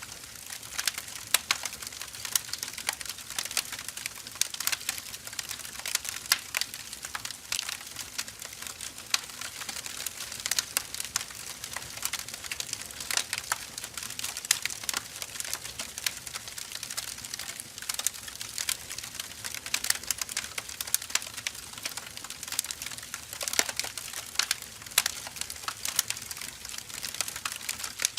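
Firewood logs burning, crackling steadily: a continuous patter of small clicks over a soft hiss, with scattered louder pops.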